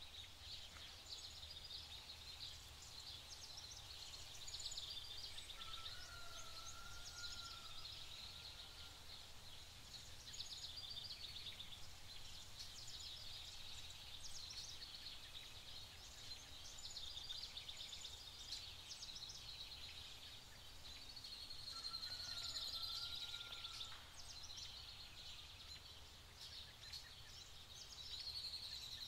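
Faint outdoor ambience of birds around a feeding pigeon flock: a dense stream of high chirps and ticks, with a short wavering whistle twice, over a steady low rumble.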